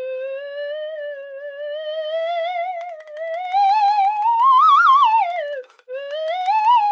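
Slide whistle played in slow, wavering glides. The pitch creeps upward to a peak about five seconds in, swoops back down, then rises again near the end, a ghostly 'woo'.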